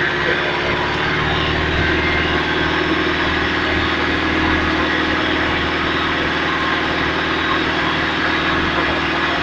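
Engine of an off-road vehicle idling steadily close by.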